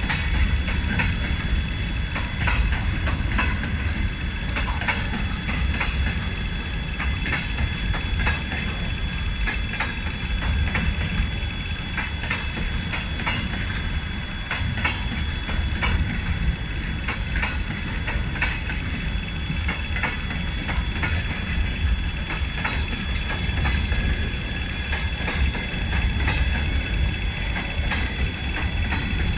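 Long freight train of open-top wagons rolling past close by: a steady rumble of wheels on rails, with many quick clicks as the wheels cross rail joints.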